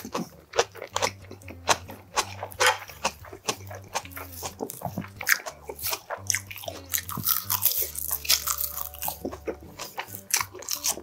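A person chewing and biting food close to the microphone: many short, crisp crunches and mouth sounds, densely packed throughout.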